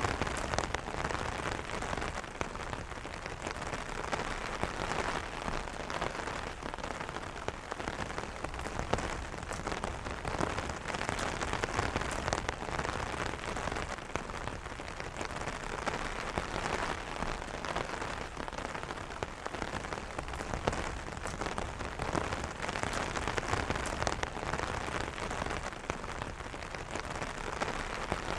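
Steady rain pattering on an umbrella's fabric canopy, a dense mix of close drop taps over the even hiss of falling rain, with no thunder.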